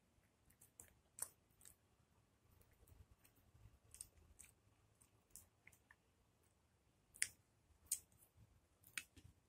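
Quiet wet mouth clicks and smacks of someone chewing and sucking on a raw lemon slice, scattered at uneven intervals, with a few louder ones in the second half.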